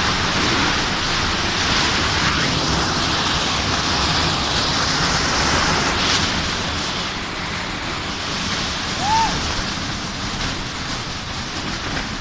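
Storm wind rushing steadily and loudly across the microphone during a tornado encounter, with a brief rising-and-falling tone about nine seconds in.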